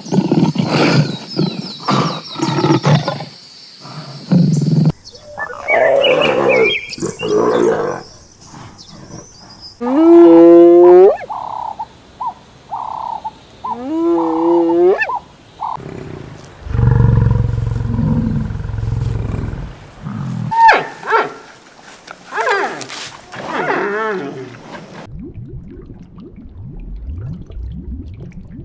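A series of different animal calls one after another, among them two short cries that rise in pitch, a long low call in the middle and a low rough stretch near the end.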